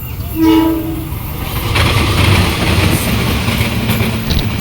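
A train's horn sounds once, briefly, then the train passes close by with a loud, steady rumble of engine and wheels on the rails.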